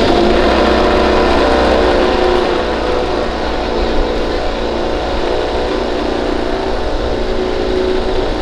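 MotoGP racing motorcycle engine running loudly with a sustained, steady note that eases slightly about three seconds in.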